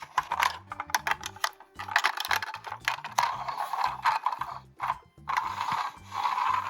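Plastic toy parts clicking and ratcheting in quick runs while being handled, with two longer scraping rubs of plastic near the end.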